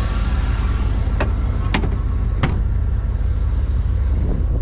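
1985 Chevrolet Camaro IROC-Z's 305 tuned-port-injected V8 idling with a steady low rumble. Three sharp knocks come between about one and two and a half seconds in, the last the loudest, as a body panel on the car is shut.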